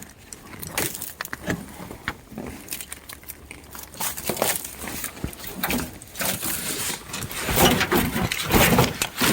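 Scattered knocks, clicks and crackling, growing busier and louder over the last couple of seconds.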